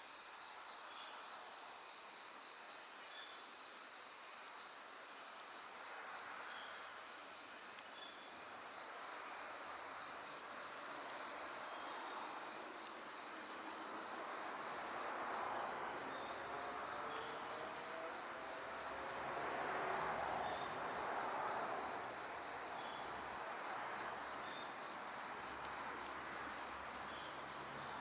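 Insects chirring steadily at a high pitch, with faint pulses repeating over the steady trill. About halfway through a broad low rushing sound swells for several seconds and then fades.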